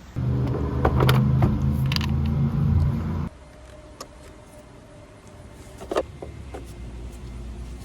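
Volvo V70's five-cylinder engine being started: the starter cranks loudly for about three seconds, then stops suddenly, and a quiet, steady low running sound follows, with a couple of sharp clicks near the end.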